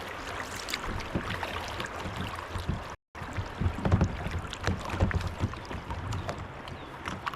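Kayak paddling on a creek: paddle strokes splashing and dripping in the water, with scattered small knocks. The sound cuts out for a moment about three seconds in.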